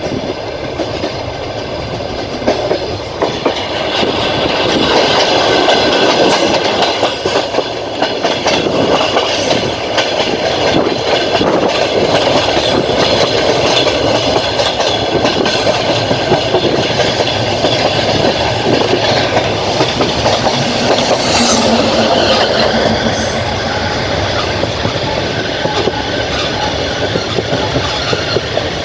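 Passenger train rolling along the track, heard from inside a carriage: wheels clacking over rail joints and points, with a steady high squeal of wheels on rail.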